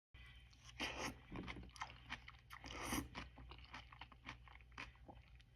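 Close-miked chewing of raw zucchini noodles, with irregular wet crunches and mouth clicks; the loudest bites come about a second in and around three seconds, over a low steady hum.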